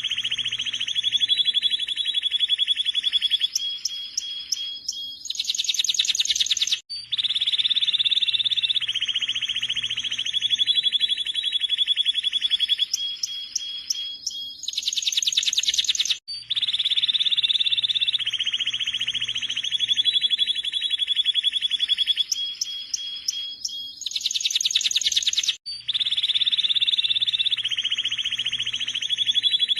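A canary singing long, fast rolling trills broken by short higher pips. The same phrase sequence repeats about every nine seconds, with a brief gap at each repeat, as in a looped song recording.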